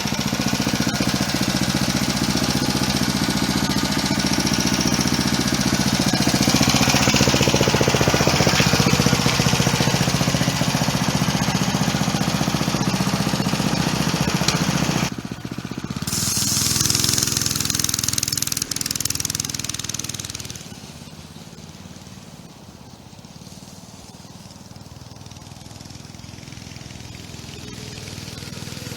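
Homemade minibike's small engine running on its first test ride, a fast steady chugging. It breaks off briefly about halfway, comes back, then fades as the bike moves away and grows again near the end as it returns.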